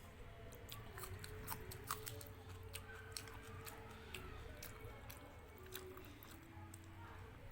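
Close-miked chewing and wet mouth sounds of someone eating a meal of dal and rice, with many short sharp clicks and smacks.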